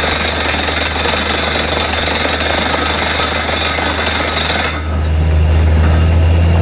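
Borewell drilling rig at work: a steady, loud hammering rattle, typical of a down-the-hole air hammer, over the low drone of the rig's engine and compressor. Nearly five seconds in, the rattle drops out and the engine's low drone grows louder.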